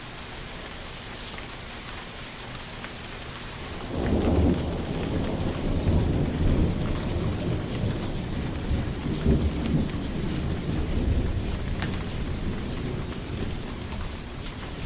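Steady rainfall hiss, then about four seconds in a roll of thunder starts suddenly, a low rumble that surges several times and slowly eases off under the rain.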